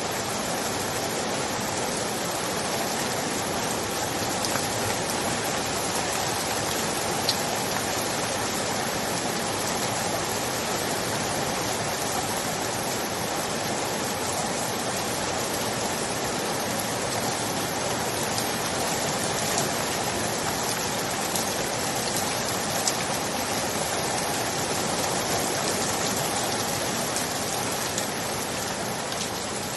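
Steady heavy rain, an even hiss with a few single drops ticking sharply now and then.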